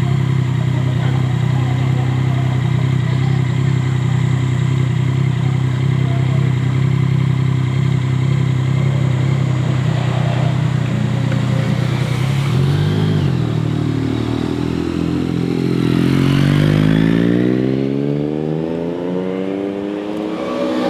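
Motorcycle engine running at a steady low pitch, with a brief rev a little past halfway. It then accelerates, its pitch rising steadily through the last few seconds.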